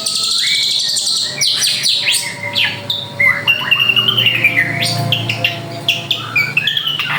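Drongo singing vigorously: a fast, varied string of whistled notes, sliding calls and chatter, opening with a high buzzy trill.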